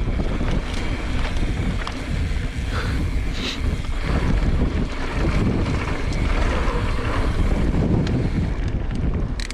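Gusty wind buffeting the microphone as a steady low rumble, over the tyre and rattle noise of a mountain bike riding a dirt trail.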